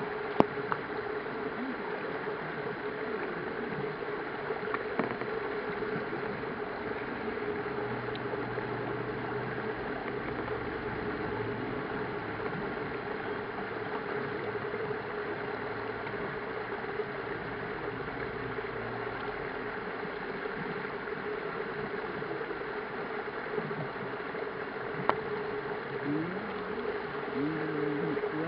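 Steady outdoor background noise with a low steady hum, a few faint clicks, and faint voices near the end.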